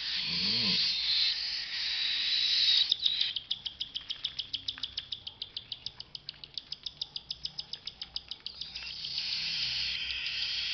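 Baby cockatiel chicks begging while being syringe-fed: a steady raspy hiss that turns, about three seconds in, into a fast rhythmic chirping of about eight pulses a second for some five seconds, then goes back to the hiss. This is the typical feeding call that goes with the chicks' head-pumping as food goes down into the crop.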